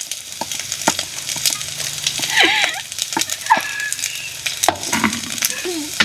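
Food frying and sizzling in a pan while it is stirred, with a utensil knocking and scraping against the pan several times. A few short, arched, pitched calls sound in the background.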